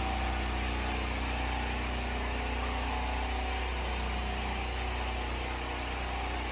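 A vehicle engine running steadily: an even low hum with a constant hiss over it and no changes in pitch or level.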